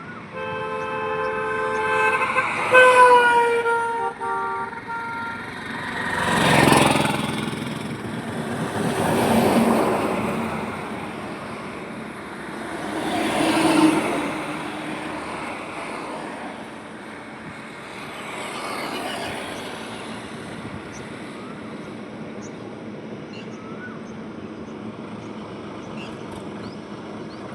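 Highway traffic: a vehicle's two-tone horn sounds for about four seconds and its pitch drops partway through as it passes. About four vehicles then go by one after another, each rising and fading, over a steady hum of traffic.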